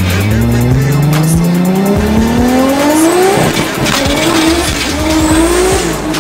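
Single-turbo Toyota Supra's straight-six heard from inside the cabin, accelerating hard: the engine note rises steadily through one gear, breaks at a shift about three and a half seconds in, then climbs again in the next gear.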